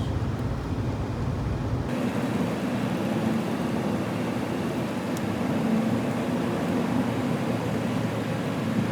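Pickup truck driving, heard from inside the cab: a steady drone of engine and road noise. The deepest rumble drops away abruptly about two seconds in.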